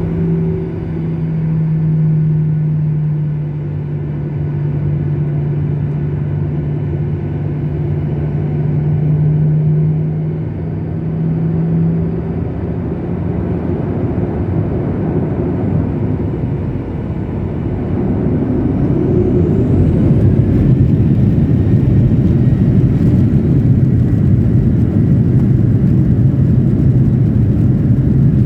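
Jet airliner cabin noise heard by the wing: a steady engine hum at first, which builds into a louder, fuller rumble about two-thirds of the way in, with a faint rising whine.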